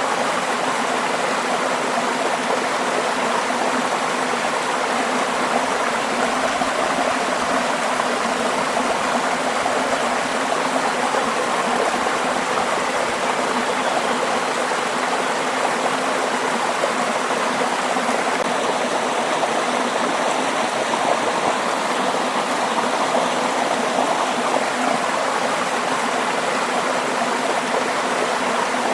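Waterfall: falling and rushing water running steadily, with no breaks.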